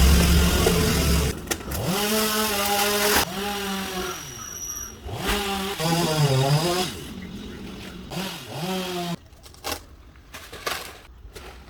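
Chainsaw cutting teak, the engine running at high revs with its pitch sagging and recovering several times as the chain bites into the wood. It cuts off suddenly about nine seconds in, leaving a few faint scattered clicks.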